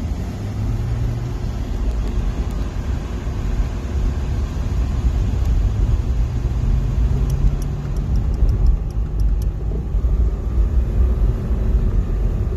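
Race car engine running hard, heard from inside the cockpit during a hot lap, with heavy rumble and road noise; the engine note rises and falls as the car accelerates and shifts.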